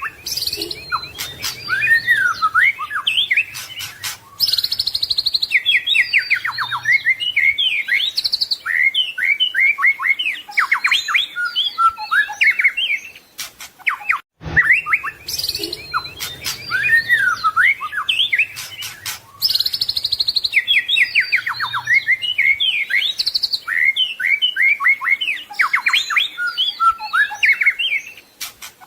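White-rumped shama (murai batu) singing a fast, varied song of whistles, trills and chirps packed with mimicked phrases of other birds. The same stretch of song repeats about halfway through, as a loop.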